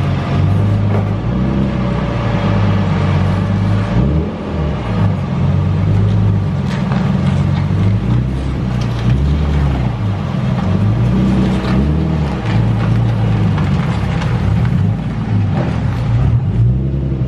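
A motor vehicle's engine running, a loud low hum that keeps rising and falling in pitch.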